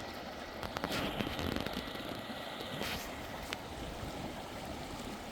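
Steady rush of the Klamath River's flowing water, with a few short clicks about one and three seconds in.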